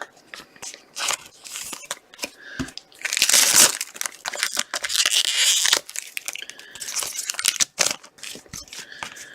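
Hands handling trading cards and crinkly plastic or foil packaging: rustling, crinkling and small clicks, with two louder stretches of crinkling about three and five seconds in.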